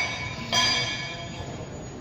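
A metal tool or part struck, about half a second in, ringing with several clear high tones that fade over about a second. An earlier strike's ring is dying away at the start.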